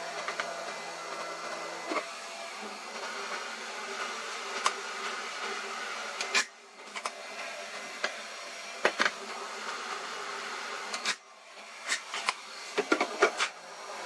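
A steady hiss with sharp clicks and taps scattered through it, bunched together near the end. The hiss cuts out briefly twice.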